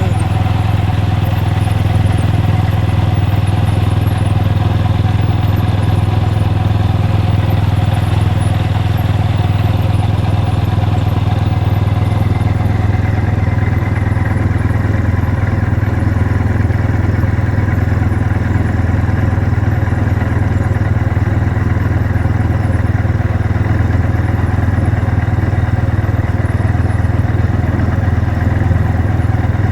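A vehicle engine running steadily at a constant speed: an even low drone with no revving.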